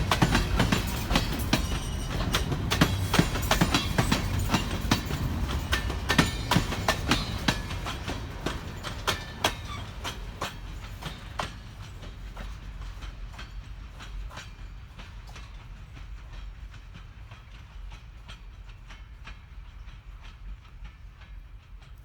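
Ballast train rolling by, its car wheels clacking over rail joints over a low rumble. The sound fades steadily as the train moves away.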